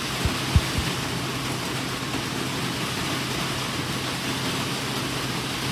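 Steady hiss of rain, with a few soft low thumps in the first second.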